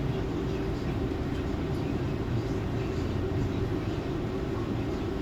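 Scania coach on the move: a steady drone of engine and road noise that holds evenly throughout.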